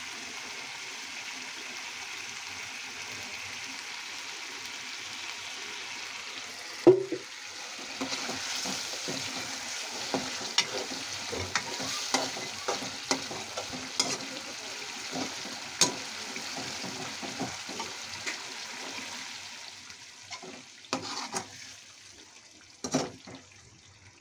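Boiled eggs in tomato-onion masala sizzling in oil in a metal pan, with a steady hiss, and a metal spoon knocking and scraping against the pan as it is stirred. One loud knock comes about seven seconds in; the sizzling dies down near the end, leaving a few taps.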